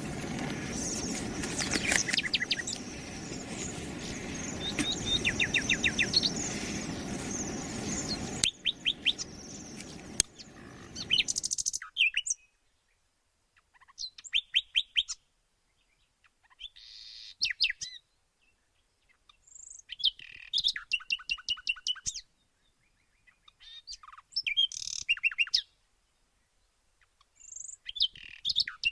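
Small birds chirping. For about the first twelve seconds the chirps sit over a steady background haze; after that they come in short bursts of rapid chirps every few seconds, with near silence between.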